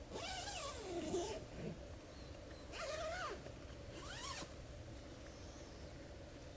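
An animal calling three times, each call a drawn-out cry that slides up and down in pitch, the first and longest near the start and two shorter ones a few seconds later.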